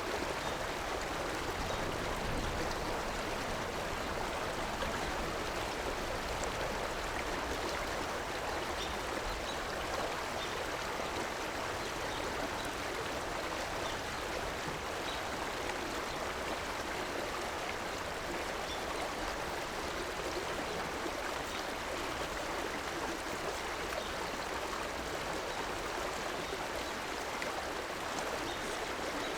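Steady rushing and gurgling of a river's flowing water, even throughout, with faint droplet ticks.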